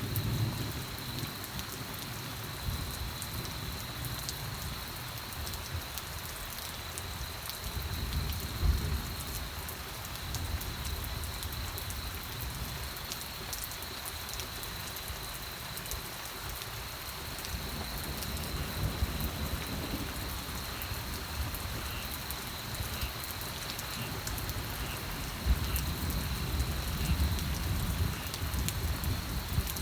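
Steady rain falling on a surface, an even hiss of drops, with low rumbles of thunder swelling a few times, most strongly near the end.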